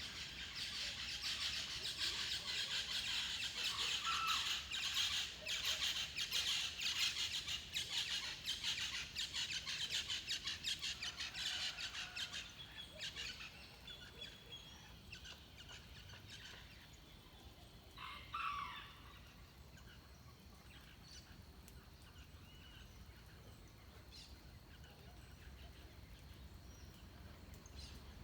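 Dawn chorus of forest birds. A dense, rapidly pulsing burst of high song fills the first twelve seconds, then thins to scattered quieter calls, with one louder falling call about eighteen seconds in.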